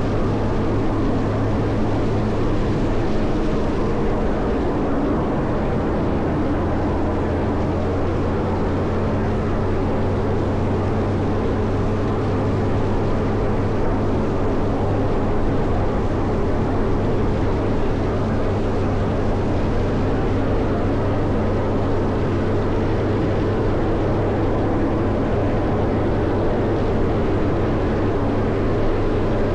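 Caterpillar 140M motor grader's diesel engine running steadily under load while plowing snow, a continuous low drone whose low note shifts slightly about six seconds in.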